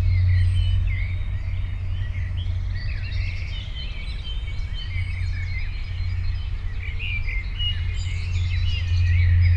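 Several small birds chirping and twittering continuously, over a steady low rumble.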